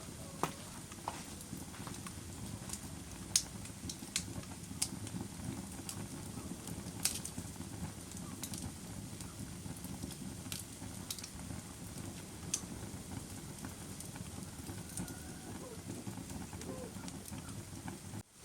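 Fire crackling: a steady low rush with irregular sharp pops and snaps every second or so, and a brief drop-out in the sound near the end.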